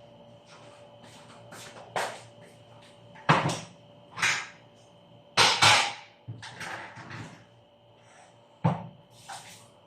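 Kitchen utensil knocking and scraping against a cooking pot while rice is transferred in: a handful of separate clatters, the loudest a quick pair about halfway through.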